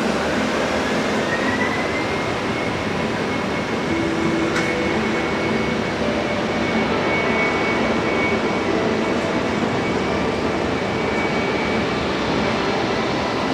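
Embraer E190's twin General Electric CF34-10E turbofans spooling up toward takeoff thrust: a steady jet rush with a thin whine that rises over the first two seconds and then holds. One short click sounds about four and a half seconds in.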